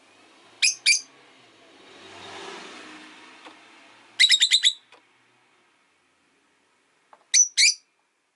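Peach-faced lovebirds giving short, sharp, high chirps: a pair near the start, a quick run of about five in the middle, and another pair near the end.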